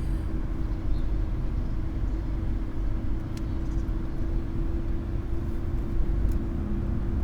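Car cabin noise while driving: a steady low rumble of the engine and tyres with a constant hum.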